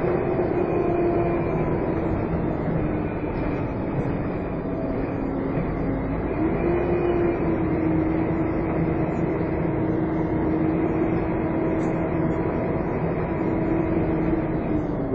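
Volvo Olympian double-decker bus in motion, heard from on board: a steady vacuum-cleaner-like whine, the 'hoovering' sound, over road rumble. The whine sags in pitch over the first few seconds, jumps back up about six seconds in, and falls away again near the end.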